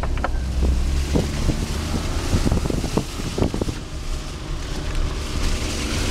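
A car driving slowly over a rough, muddy dirt road, its engine and tyres giving a steady low rumble. A run of knocks and rattles comes from about half a second to four seconds in as the car jolts over the bumps.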